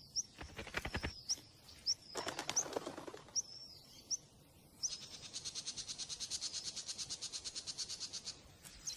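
Small birds chirping with short, high, thin notes, then a fast, even, high-pitched pulsing trill of about ten pulses a second that lasts some three and a half seconds.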